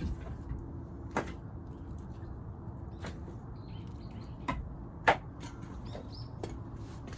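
Several separate sharp knocks at uneven intervals over a low steady background rumble, the loudest about five seconds in.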